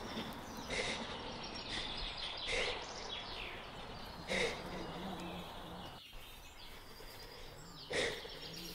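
Open-air ambience: a steady background hiss with birds chirping at intervals.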